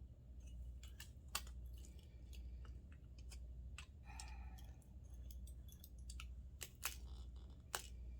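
Scattered small clicks and taps of hand tools and metal parts being handled while a doorknob is taken apart, with a few sharper clicks, over a steady low hum.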